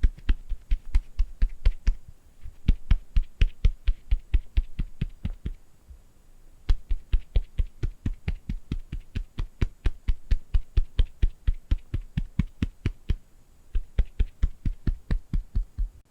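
Fingertips tapping rapidly on an object, about five taps a second, in runs broken by short pauses about two, six and thirteen seconds in.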